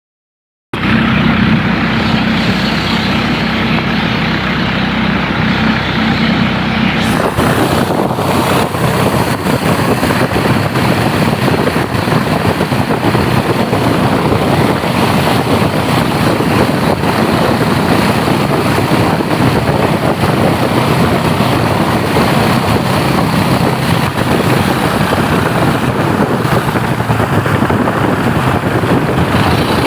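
Boat motor running steadily, with a low, even engine hum. About seven seconds in the sound turns rougher and noisier, a steady rush of motor, water and wind.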